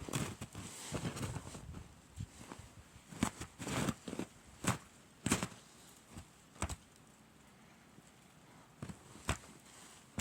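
Footsteps crunching through deep snow, an uneven step every half second or so, with a pause of about two seconds near the end.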